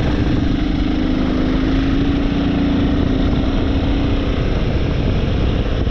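Royal Enfield motorcycle engine running under way, with wind rushing over the microphone. A steady engine tone holds through most of the first four seconds, then fades into the general noise.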